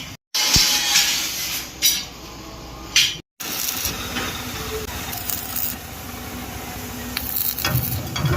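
Steady hissing workshop noise in several short clips cut together abruptly, with a few sharp metallic clinks.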